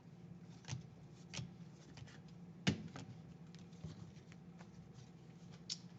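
Baseball cards being handled and sorted, giving about five separate light taps and flicks, the loudest nearly three seconds in, over a steady low hum.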